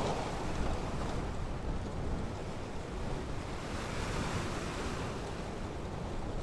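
Ocean surf breaking and washing up the shore, with a wave surging in about four seconds in, over a low rumble of wind on the microphone.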